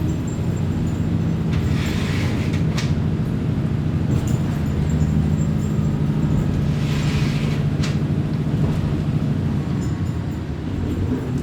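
Kominato Railway diesel railcar running, heard on board: a steady engine drone. About every five seconds there is a short rush of higher noise and a sharp click.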